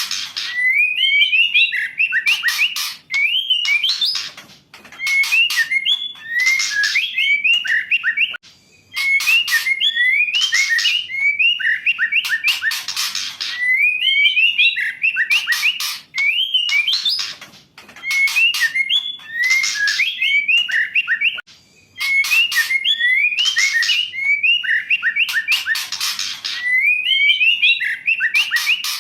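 Female white-rumped shama (murai batu) calling: short phrases of whistled notes that jump up and down in pitch, mixed with harsh rattling clicks. A new phrase starts every two to three seconds, with brief gaps between them.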